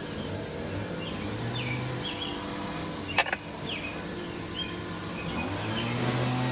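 Outdoor ambience: a steady high insect buzz with short bird chirps, a single sharp click about three seconds in, and a low hum that rises and then holds steady after about five seconds.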